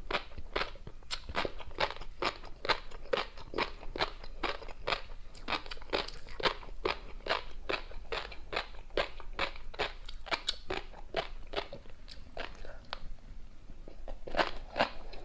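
Close-miked chewing of tobiko (flying fish roe) with a crunchy topping: a quick, irregular run of crunchy pops and crackles, about three a second, thinning out briefly near the end before picking up again.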